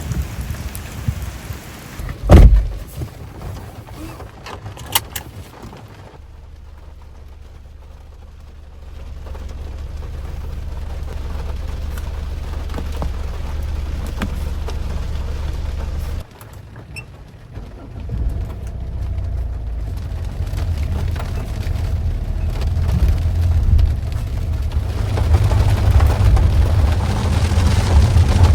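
Rain falling steadily, heavy in the low end, with a loud sudden thump about two seconds in. The low rumble swells again in the last few seconds.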